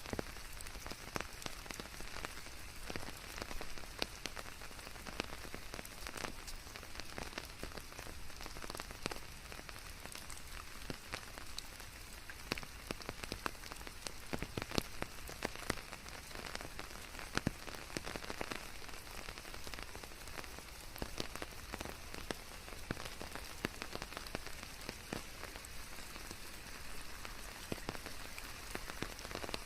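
Steady rain, a continuous hiss with many distinct drops ticking and pattering on surfaces, mixed with a white-noise bed.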